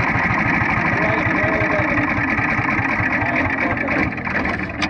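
Single-cylinder Briggs & Stratton Animal engine of a quarter midget race car, heard close, running with a fast, even pulse. It drops off about four seconds in, and a sharp click comes near the end.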